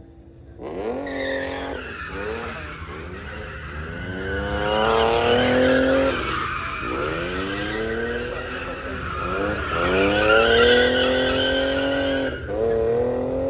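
Car engine revving hard, its pitch climbing, falling back and climbing again several times, while the tires squeal continuously: a car spinning its tires under power.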